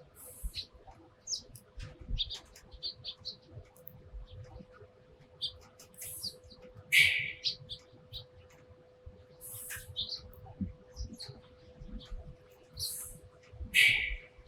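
Eurasian tree sparrows chirping: many short, scattered chirps, with a couple of louder bursts about halfway and near the end.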